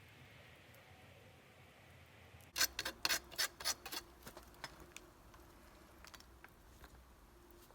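A blade shaving fatwood: a quick run of sharp scraping strokes lasting about a second and a half, then a few faint scattered clicks.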